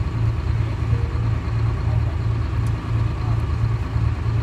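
The Detroit Diesel 6V71 two-stroke diesel of a 1970-71 GMC New Look bus running steadily, a low drone with a regular throb about twice a second.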